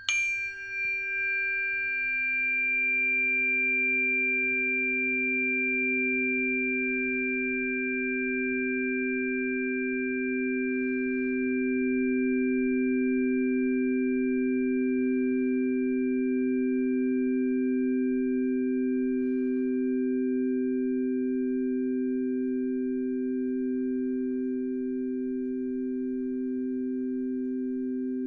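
Singing bowl ringing in a long sustained tone after a strike, held at a steady level as if sung around the rim, with a slow, even wobble of beating in its low notes.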